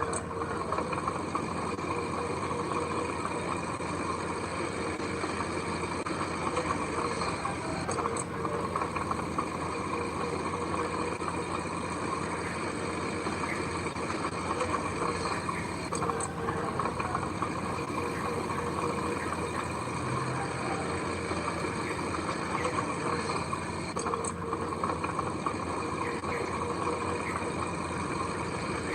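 Heavy diesel machine engine running steadily, with a faint click that comes back about every eight seconds.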